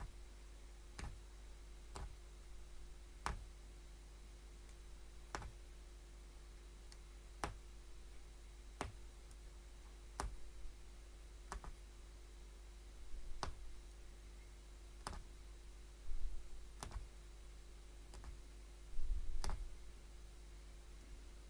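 Hollow punch needle being stabbed through stretched backing fabric, giving a sharp click with each stab at an uneven pace of about one every one to two seconds. A few low handling bumps come near the end.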